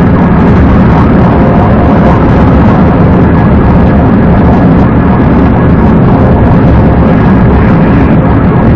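Steady, loud engine and road noise of a police car driving at speed.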